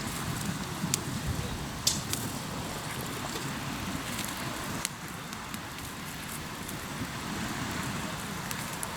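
Hardwood campfire crackling, with a few sharp pops, over a steady low rushing rumble.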